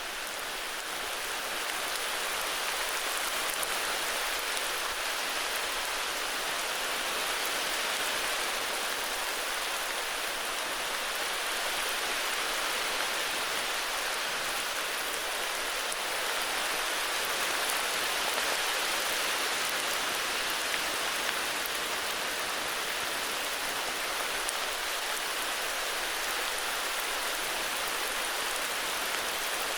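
Heavy rain falling steadily, an even hiss of many drops with a few faint individual drop ticks.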